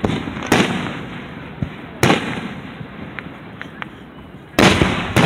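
Aerial firework shells bursting overhead: three loud booms, each dying away slowly, the last one near the end the loudest and followed at once by a sharp crack. Smaller crackles and pops sound between the booms.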